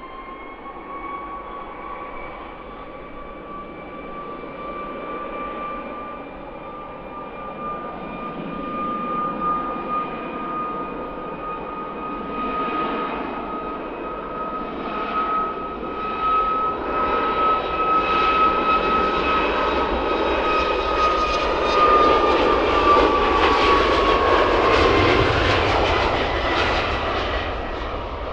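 Jet airliner's engines passing close. A steady high whine rides over a rising rush that grows louder, peaks a little over twenty seconds in, then eases off as the whine drops in pitch when the aircraft goes by.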